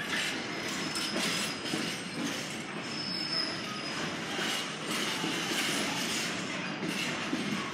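Train rolling slowly past on the rails, a steady rumble with wheels clicking over rail joints and brief high-pitched wheel squeals near the start and about three seconds in.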